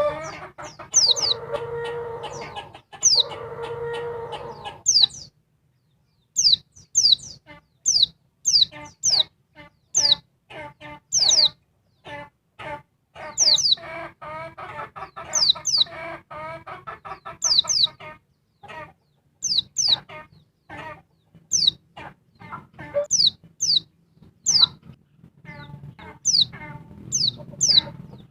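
Female white-eye (pleci) calling: short, high chirps falling in pitch, several a second. Beneath them runs a lower, rapid clucking chatter, and two longer drawn-out calls come in the first five seconds.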